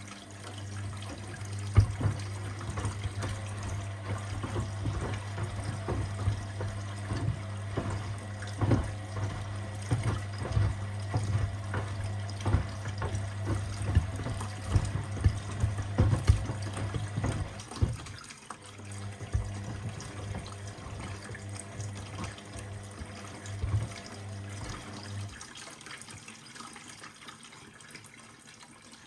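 Washing machine with sneakers inside, water running and sloshing, and many sharp knocks until well past halfway. A steady low hum runs under it and stops a few seconds before the end.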